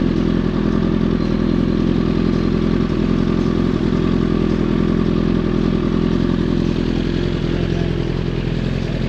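Inline-four superbike engine idling steadily with an aftermarket exhaust, with no revving.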